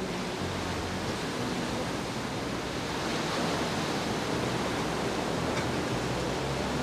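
Steady, even rushing noise, like wind or water heard outdoors, swelling slightly about halfway through.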